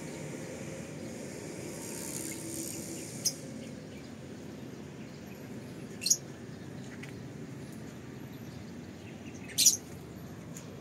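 Outdoor ambience with a steady background hiss and short, sharp bird chirps about three times, a few seconds apart, the loudest near the end.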